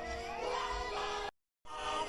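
Song with a group of voices singing over instrumental backing, broken by an abrupt cut to silence for a fraction of a second just past the middle, then the music resumes.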